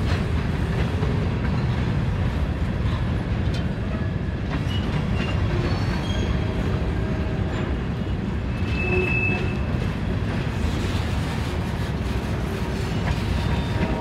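Freight train of covered hopper cars rolling past: a steady rumble of wheels on rail, with a few short, faint wheel squeals, the clearest about nine seconds in.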